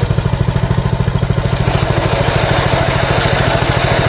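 Mini bike's small gas engine running with a steady, rapid, even putter.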